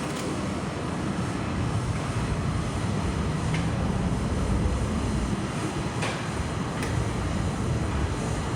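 Steady low engine-like rumble, with a few faint clicks.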